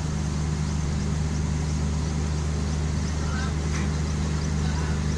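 Garib Rath Express coaches running as the train pulls out, heard from aboard at the open door: a steady low drone with a hum underneath.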